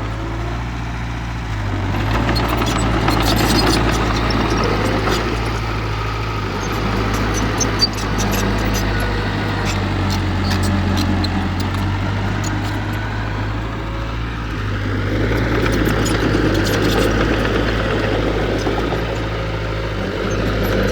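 Heavy diesel engine of earthmoving machinery running steadily, working harder twice with swells of louder noise, with scattered light clicks and clanks.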